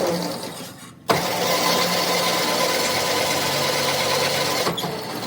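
An electric workshop power tool running with a steady whine and hiss. It cuts out about a second in, starts again sharply, and stops near the end.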